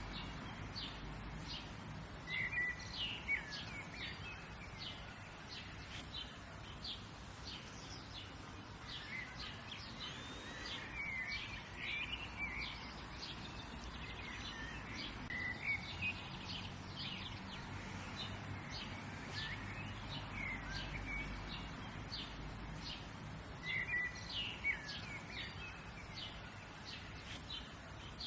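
Several small birds chirping and singing in short repeated notes and trills, with a few louder phrases, over a low steady outdoor background hum.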